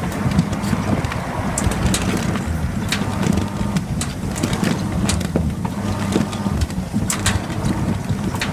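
Coin-laundry sneaker washing machine running a wash: a steady low hum with irregular sharp clicks and knocks.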